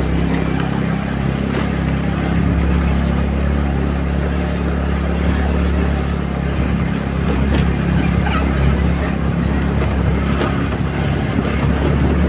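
TVS Ntorq scooter engine running steadily under way, with a rush of wind over the microphone.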